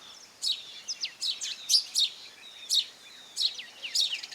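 House sparrows chirping: a steady run of short, high chirps, about two or three a second.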